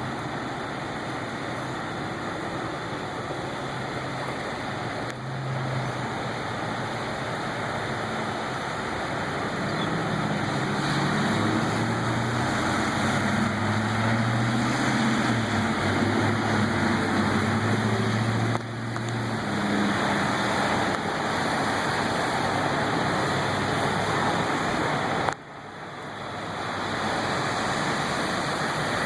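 Steady rushing noise of flood water and traffic, with a vehicle engine growing louder about a third of the way in and dropping away a little past the middle.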